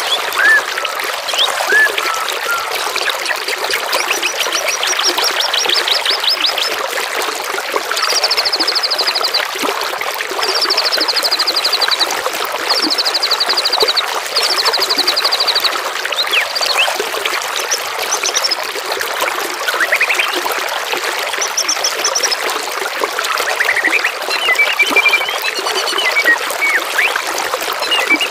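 Steady trickling of running water with songbirds singing over it: high rapid trills about a second long come every couple of seconds through the first half, then shorter scattered chirps and whistles near the end.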